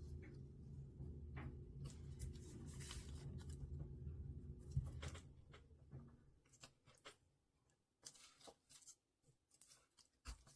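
Faint snips and rustles of paper being cut with scissors and handled, in short scattered strokes. A low steady hum runs underneath and stops about six seconds in.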